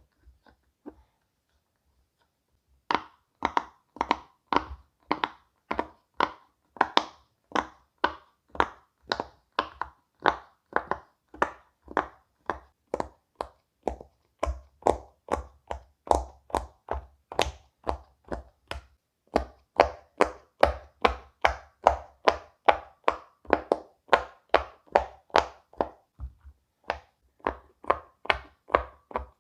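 Silicone pop-it fidget toy bubbles being pushed in one after another: a steady run of sharp pops, about two a second, starting about three seconds in, with a few short pauses.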